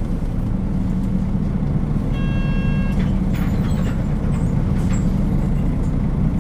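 A Nissan Diesel KL-UA452KAN city bus's diesel engine running steadily under way, heard from inside the cabin. A brief electronic tone sounds about two seconds in.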